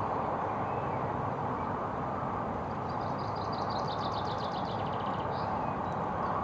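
Steady outdoor background noise, with a small songbird singing a rapid trill from about three seconds in, lasting about two and a half seconds.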